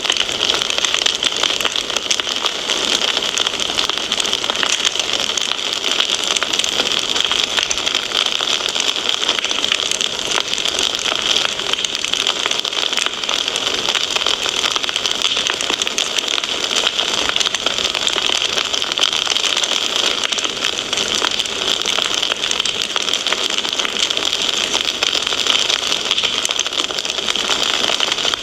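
Fireplace fire crackling steadily: a dense run of small snaps and pops over an even hiss.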